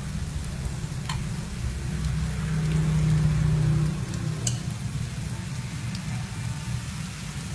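Shredded sweet potato fritter frying in hot oil in a pan: a steady sizzle with a few sharp pops. A low hum runs underneath, louder from about two to four seconds in.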